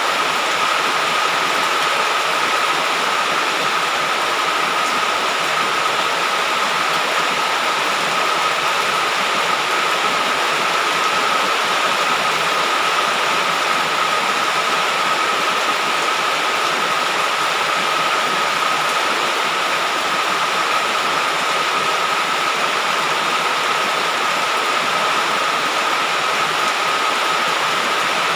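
Heavy rain falling steadily, an even unbroken downpour, with a thin steady high tone running through it.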